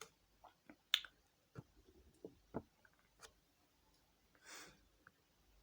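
Quiet room with a few faint scattered clicks, the loudest about a second in, and one short soft breath about four and a half seconds in.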